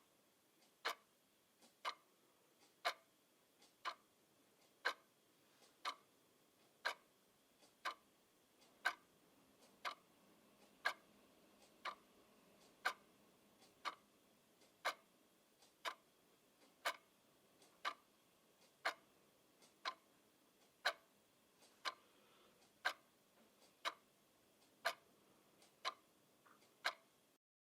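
Clock ticking steadily, about one tick a second, each tick a sharp click with a fainter click just before it. The ticking cuts off near the end.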